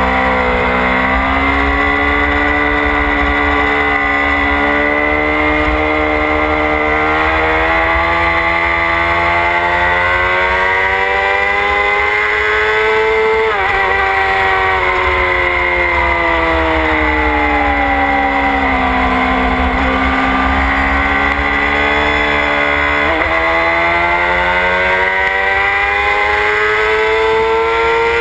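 Motorcycle engine running hard on a track, its pitch climbing slowly under acceleration, then falling away as it slows, with sharp blips about halfway and again near the end before it climbs once more. Wind buffets the onboard microphone throughout.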